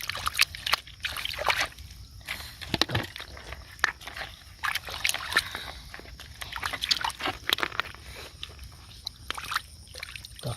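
Irregular sloshing and splashing in shallow water, broken by many short, uneven splashes.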